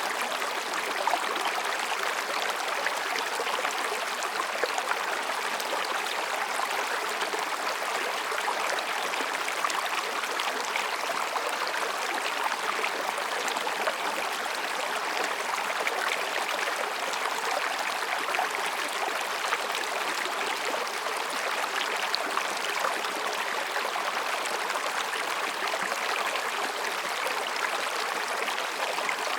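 Mountain stream babbling over and between rocks: a steady rush of flowing water, with small splashes and gurgles scattered through it.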